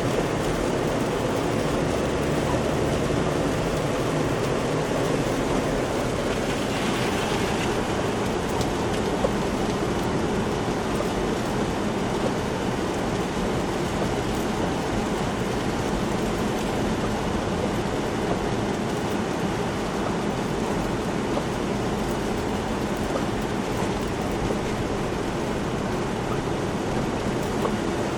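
Steady road noise heard from inside a moving car on a wet, snow-covered road: tyre hiss and a low engine hum, with a brief louder hiss about seven seconds in.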